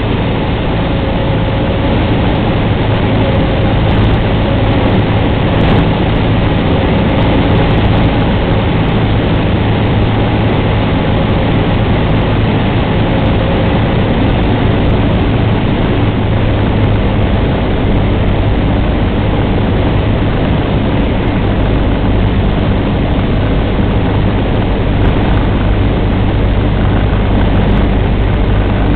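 Cessna 150's four-cylinder Continental O-200 engine and propeller running steadily, a constant drone with no change in power.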